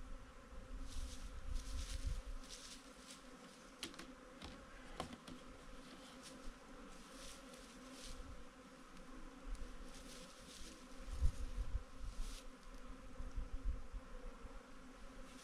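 Many honeybees buzzing steadily around a beehive, with irregular low rumbles and brief hissy rustles mixed in.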